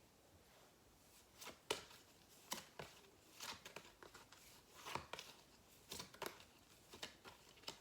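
Phonics sound flashcards being flipped quickly one after another: faint soft flicks and taps of card, irregularly about every half second, over near-silent room tone.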